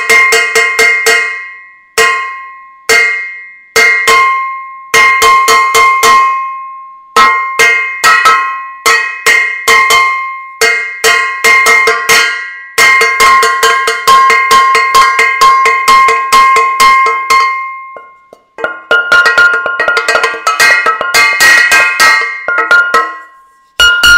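Metal saucepans being banged, rapid ringing clangs in clusters with brief pauses. Near the end a different, higher-ringing pan takes over.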